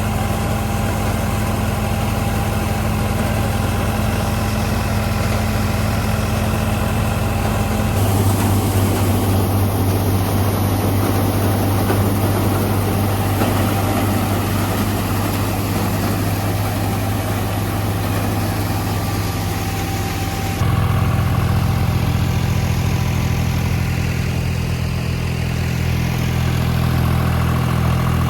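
New Holland 3630 tractor's three-cylinder diesel engine running steadily at idle. Its tone shifts suddenly about eight seconds in and again about two-thirds of the way through.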